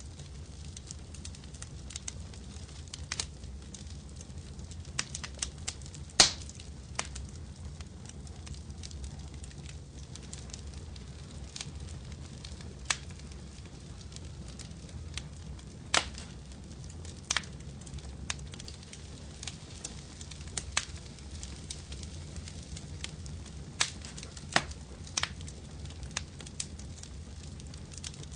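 Wood fire crackling in a fireplace: irregular sharp pops and snaps over a steady low rumble, the loudest pop about six seconds in.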